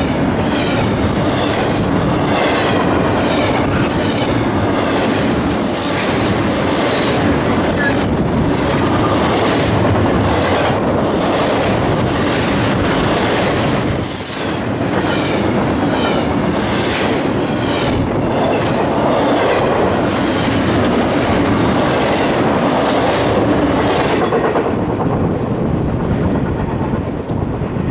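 Double-stack intermodal freight train's well cars rolling past, a steady wheel-and-rail rumble with a rhythmic clickety-clack of the wheels. There is a brief high wheel squeal about halfway through. The sound dies away near the end as the last car passes.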